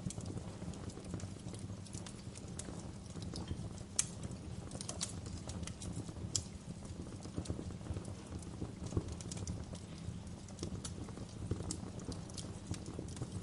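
Wood fire crackling: irregular sharp pops and snaps, the loudest about four and six seconds in, over a steady low rumble of burning.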